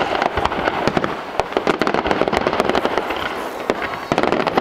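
Fireworks finale barrage: a dense, rapid run of shell bursts and crackling reports, easing briefly past the middle and then picking up again in a thick volley near the end.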